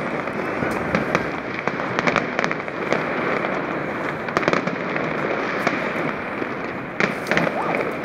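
Aerial fireworks bursting continuously, many overlapping bangs and crackles merging into a steady rumble, with a cluster of sharper bangs near the end.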